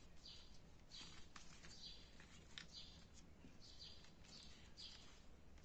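Faint, repeated short high chirps of a small bird, one or two a second, with a few light clicks.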